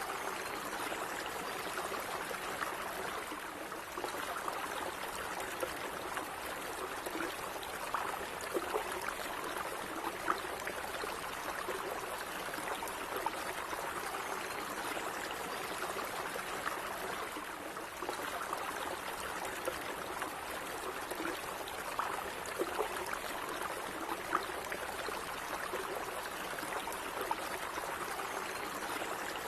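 Calm stream water running steadily, an even babble with small gurgles and splashes now and then.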